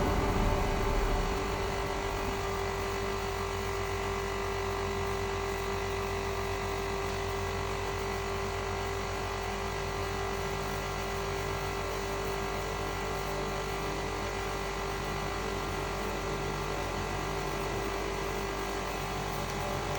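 A motor-driven machine running steadily, with a constant hum and a steady mid-pitched whine that holds without change.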